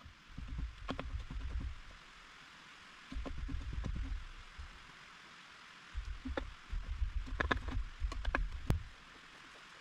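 Steady hiss of rain, broken three times by stretches of low rumbling knocks and sharp clicks from movement and handling close to the microphone.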